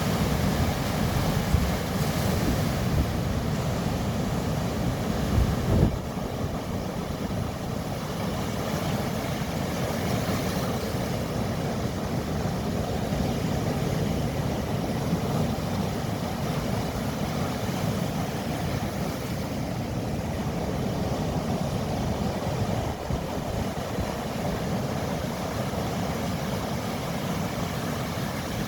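Mediterranean Sea waves washing steadily, with wind rumbling low on the microphone; a brief louder gust buffets about six seconds in.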